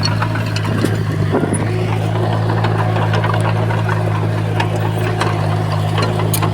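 Diesel engine of a Komatsu bulldozer running steadily, with scattered sharp clicks and clanks over the drone.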